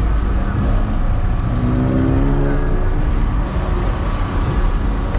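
Car engine running with a loud low rumble, rising into a short held rev about two seconds in.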